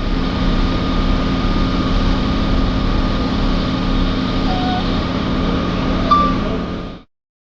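Large vehicle engine, typical of a fire engine on scene, running steadily at idle with a constant hum, with a short chirp about six seconds in; it cuts off suddenly near the end.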